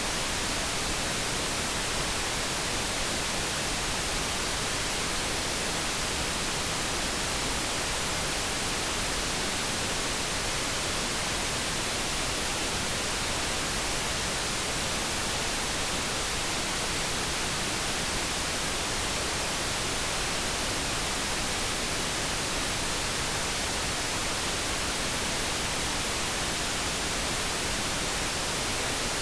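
Steady synthetic noise from a light brown noise focus track: an even, unchanging hiss with no tones or events.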